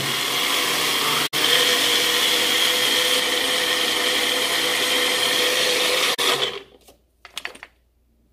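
Electric kitchen blender running at a steady speed for about six seconds, cutting out for an instant about a second in, then switched off.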